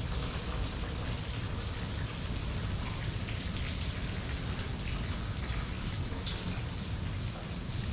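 Steady rain, with many separate drops ticking on hard surfaces over a low rumble.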